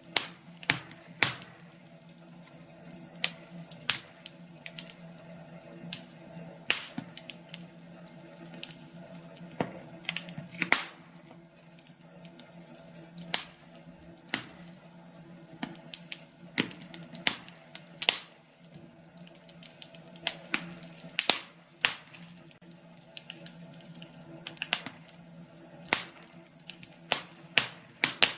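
Wood fire crackling in a fireplace: irregular sharp pops and snaps, about one a second, over a steady low hiss of the burning logs.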